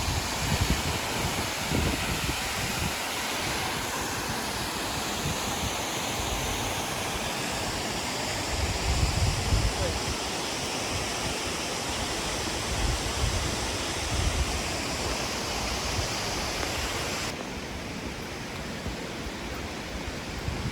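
Steady rushing roar of Aber Falls (Rhaeadr Fawr), a 37-metre waterfall, with low gusts of wind buffeting the microphone now and then. About three seconds before the end the sound turns duller as the high hiss drops away.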